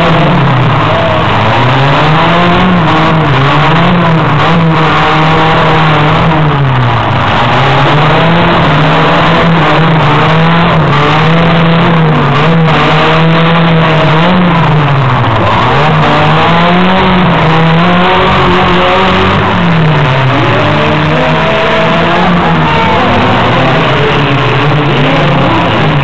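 Several compact demolition-derby cars' engines revving up and falling back again and again as the cars are driven hard around the arena, loud throughout.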